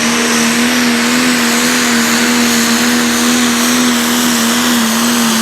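Pulling tractor's racing engine running at high, steady revs, its pitch wavering slightly up and down.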